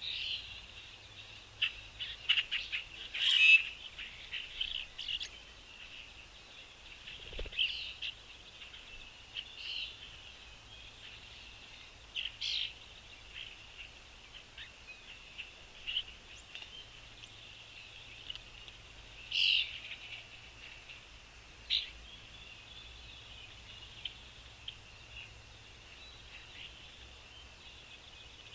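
Small songbirds chirping and calling over a steady, dense background chorus of birdsong, with short, louder chirps scattered throughout.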